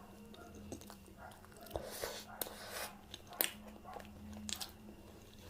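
A person chewing and eating Indian food with irregular mouth clicks and smacks, a few louder bursts of chewing coming between about two and three and a half seconds in. A faint steady hum sits underneath.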